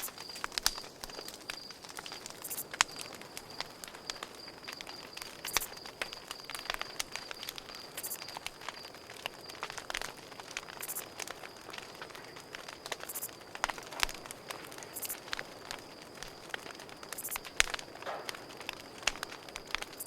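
Campfire crackling, with frequent sharp pops and snaps, over a steady high-pitched cricket trill.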